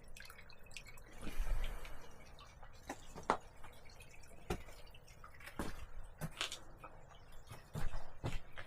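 Water dripping in scattered, irregular drops, with a brief low rumble about a second and a half in.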